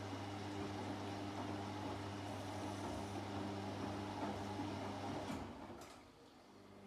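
Washing machine running with a steady motor hum and churning; about five and a half seconds in, after a couple of faint clicks, the running dies away to a lull, as the drum pauses between turns in the wash cycle.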